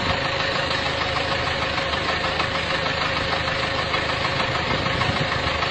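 Vehicle engine running steadily, with a steady tone over the engine noise.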